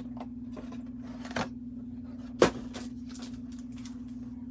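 Handling of foil card packs and their cardboard box on a table: scattered clicks and rustles, with a knock about a second and a half in and a louder sharp knock about two and a half seconds in, over a steady low hum.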